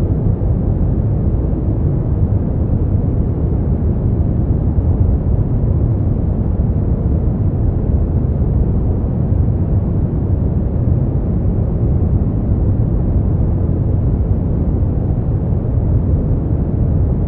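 Brown noise: a steady, deep rumbling hiss with most of its weight in the low end and little treble, unchanging throughout.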